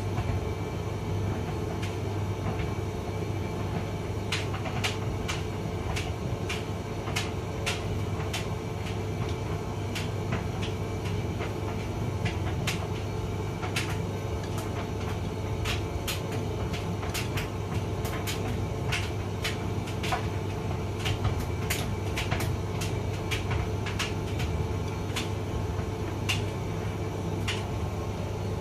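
Hotpoint vented tumble dryer running: a steady motor and drum hum, with frequent irregular sharp clicks and taps as the load tumbles in the drum.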